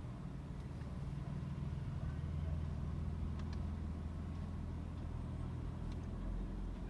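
Motor vehicle engine running steadily at low speed, with a few faint clicks about three and a half and six seconds in.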